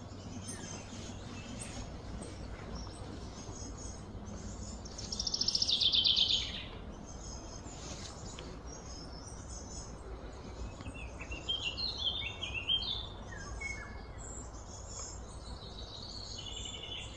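Songbirds singing and chirping over a steady low background rumble. About five seconds in, a loud, fast trill swells for about a second and a half. Around eleven to thirteen seconds in comes a run of chirps stepping down in pitch.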